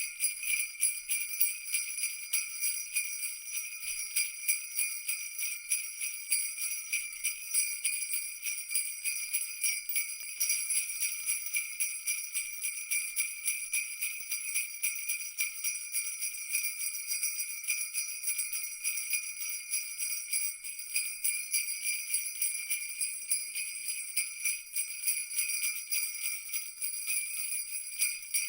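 Jingle bells shaken continuously in a fast, even rhythm, a bright high ringing jingle.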